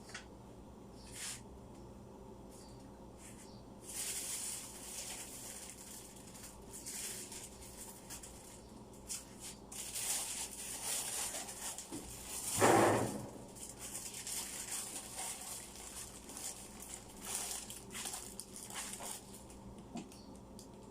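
Food containers and packages being handled and taken out of a refrigerator: scattered clicks, knocks and rustles, with one louder clatter about halfway through, over a low steady hum.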